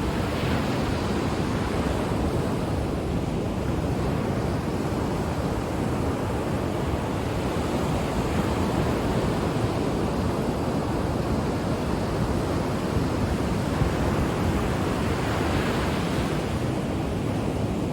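Ocean waves washing on the shore, a steady rushing surf that swells gently a few times, with some wind on the microphone.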